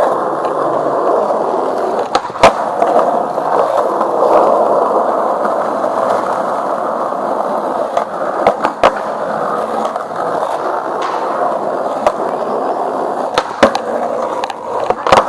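Skateboard wheels rolling steadily over pavement, with sharp clacks in quick pairs a few times along the way.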